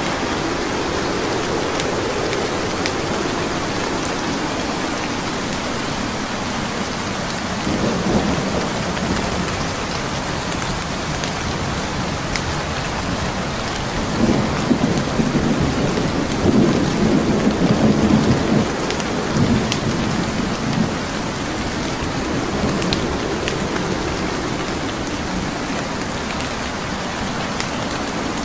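Steady rain with thunder rumbling: a short rumble about eight seconds in and a longer one through the middle. Scattered sharp crackles of a wood fire sound over the rain.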